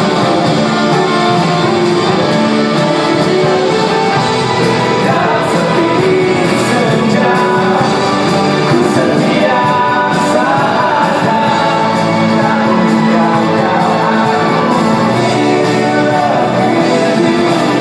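Live rock band playing a song with a singer's voice over the music, loud and steady throughout.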